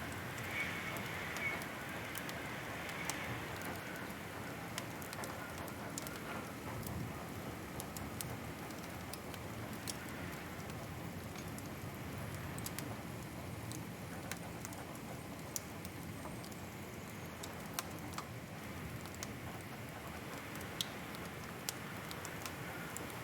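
Wood fire crackling: a steady soft hiss with sharp, irregular pops every second or two.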